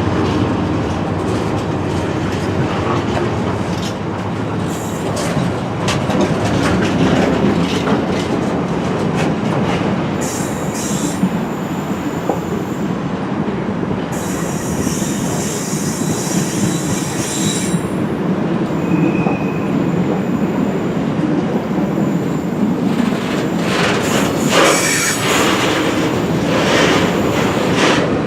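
A train running by on the tracks with a steady rumble of wheels on rail. High-pitched wheel squeal comes in about a third of the way through and again near the end.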